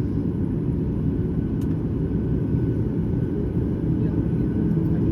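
Steady low rumble of a Boeing 737-9 MAX with its CFM LEAP-1B engines running, growing slightly louder near the end.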